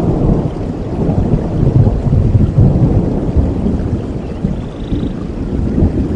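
Rolling thunder rumbling over steady rain, the rumble swelling about two seconds in and easing off toward the end.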